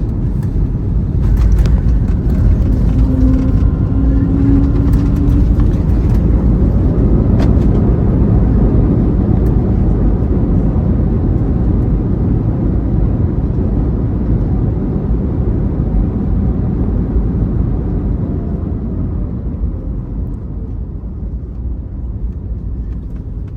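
Airliner cabin during the landing roll of an Airbus A321neo: a loud rushing roar of engines and runway noise swells a second or two in, with a few knocks and a brief tone in it. Over the second half it fades steadily as the aircraft slows.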